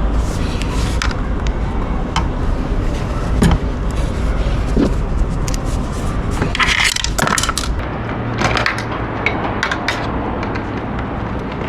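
Metal clinks, a sharp knock and a stretch of scraping and rattling from hand work on a motorcycle's exhaust muffler, over a steady low rumble.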